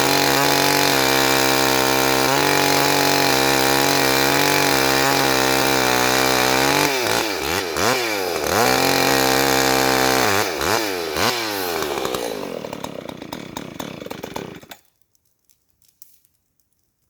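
Chainsaw engine running at a steady high speed, then revved down and up several times, dropping to a lower, fading run and shutting off abruptly about 15 seconds in; only a few faint clicks follow.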